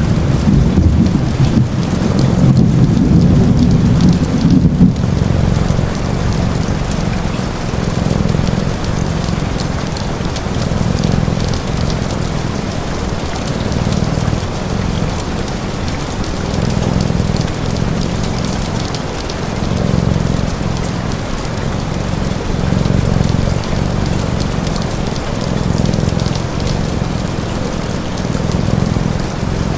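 Steady rain, with a deep low rumble under it that swells and fades about every three seconds and is loudest in the first few seconds.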